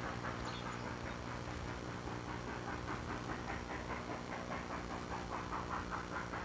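Steam-train chugging sound effect: an even, breathy chuff repeating about four times a second over a steady low hum.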